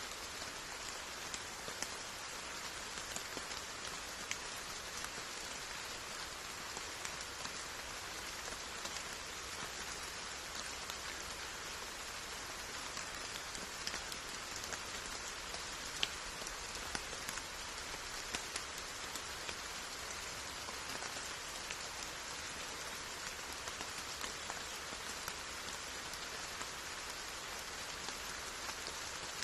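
Steady rain falling, an even hiss with many scattered individual drops ticking through it; one drop stands out a little louder about midway.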